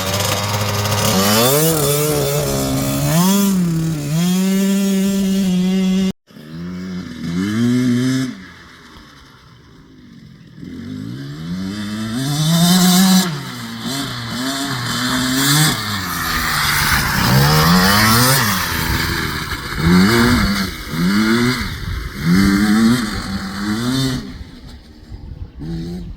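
Husqvarna TC65 two-stroke dirt bike engine revving up and down over and over, its pitch climbing and falling with throttle and gear changes. About six seconds in the sound cuts off abruptly and picks up again, and it eases to a quieter lull a few seconds later before revving hard again.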